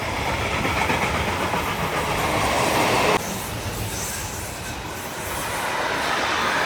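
A passenger train running on rails, a steady rumble of wheels on track; the sound drops abruptly and turns quieter about three seconds in.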